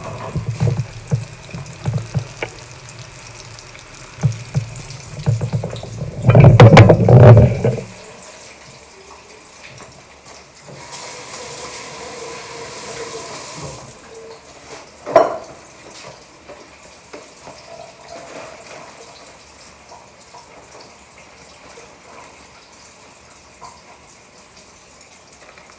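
Kitchen work: bumps and handling knocks for the first several seconds, loudest a little past halfway through that stretch, then a tap running for about three seconds and one sharp clack of a utensil or dish. After that only a low background hum.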